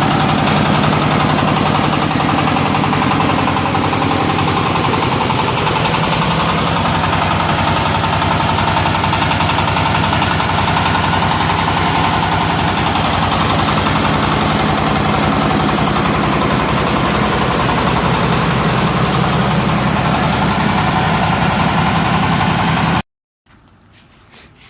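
Engine-driven corn sheller machine running steadily at a constant speed. It cuts off suddenly about a second and a half before the end, leaving only faint ticks.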